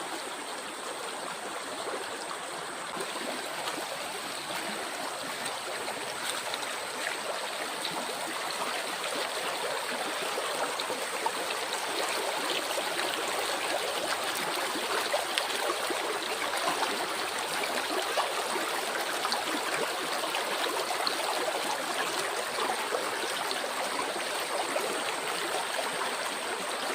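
A stream flowing and babbling over stones in a steady, dense rush that grows a little louder partway through. A faint, steady high-pitched tone runs underneath.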